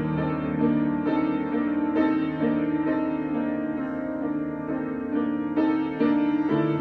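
Solo piano improvisation: melody notes struck about twice a second over held lower notes, with stronger chord attacks near the end.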